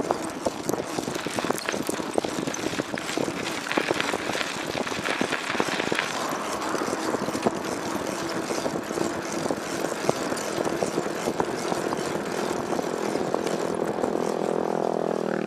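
A motor vehicle's engine running steadily, with a dense crackle of wind or road noise on the microphone. The engine tone climbs in pitch near the end.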